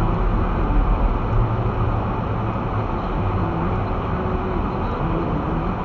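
Car driving slowly through deep snow, heard from inside the cabin: a steady low engine hum that wavers slightly in pitch, over road and wind noise.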